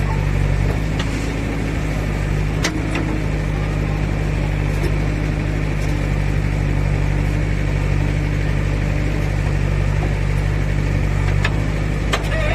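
JCB 3DX backhoe loader's diesel engine running steadily under a working load, with a few sharp knocks mixed in.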